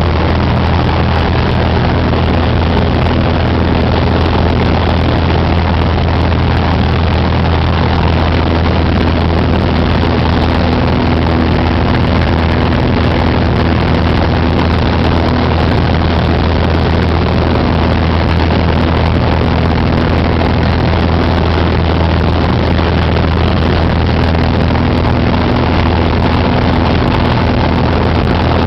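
Cessna 188 AgTruck's piston engine and propeller running in a steady, loud drone, with a deep hum and a rushing noise that hold unchanged throughout.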